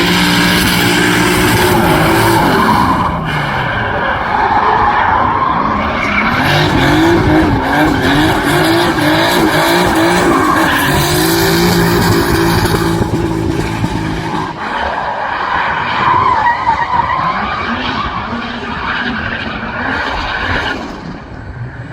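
A drift car, a Volvo 740 with a swapped-in BMW B58 turbocharged straight-six, running at high revs with its tyres squealing and skidding. The revs waver up and down quickly for a few seconds, hold high, and drop away twice. The sound fades near the end.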